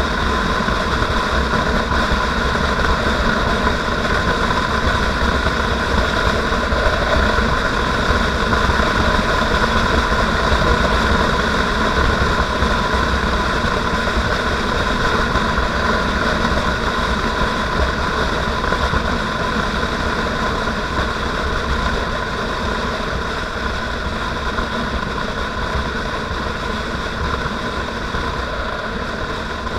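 Motorcycle engine running steadily while riding, easing slightly quieter over the last several seconds.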